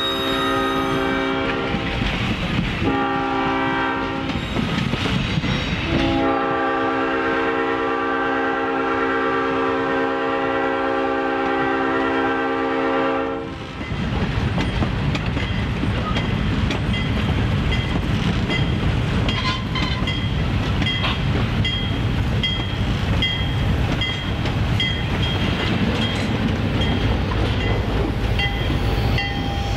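Diesel locomotive's multi-chime air horn sounding for a grade crossing: the end of a blast, a short blast about three seconds in, then a long blast of about seven seconds. After it, the passing passenger cars' wheels rumble and clack over the rail joints, and a bell rings steadily in the second half.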